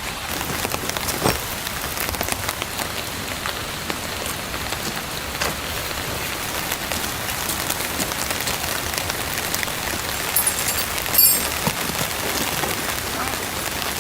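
Steady rain, with the patter of many drops striking a surface. A brief high sound stands out about three-quarters of the way through.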